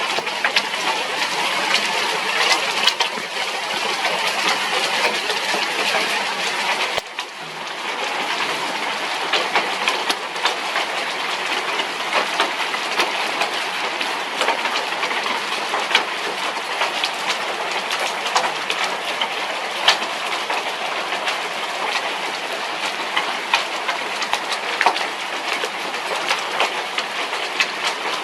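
Heavy thunderstorm rain pouring down: a dense, steady hiss scattered with the sharp clicks of drops striking close by.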